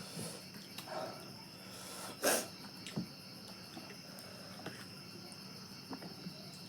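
Eating sounds: scattered short chewing and mouth noises, with one louder, sharper slurp or crunch about two seconds in, over a steady high-pitched hum in the background.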